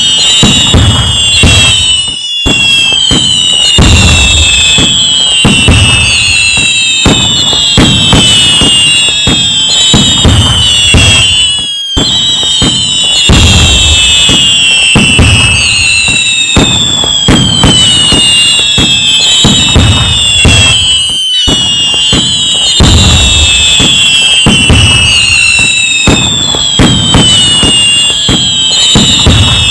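Loud fireworks barrage: many whistling fireworks with falling whistles over dense crackling and low booms. The same stretch repeats about every nine and a half seconds, each time after a brief drop-out.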